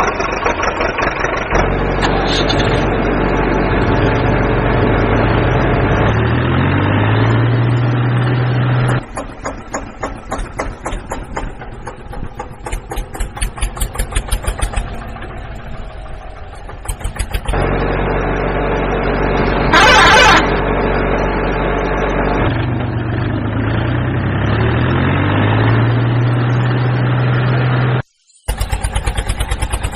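Tractor engine running and revving up in steps, with a stretch of rapid chugging in the middle and a brief loud burst about twenty seconds in. The same run of engine sound plays twice.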